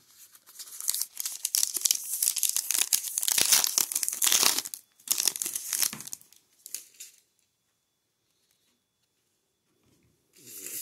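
A trading-card pack wrapper being torn open and crinkled, most loudly for about four seconds, then a few shorter rustles. Another burst of crinkling comes near the end.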